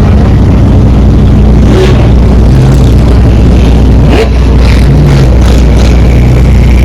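Car engine running loud and close, a steady low rumble that rises briefly twice.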